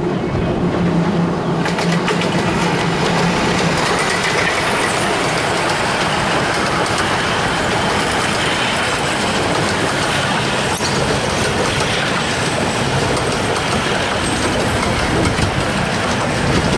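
A 15-inch-gauge miniature railway train running along the platform, its coaches rumbling and clattering over the rails as they pass close by.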